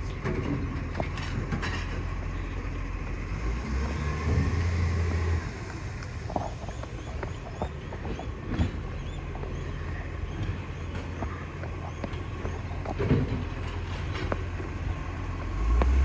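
Garbage truck's engine running steadily with a low hum, growing louder for about a second and a half around four seconds in, with scattered light knocks.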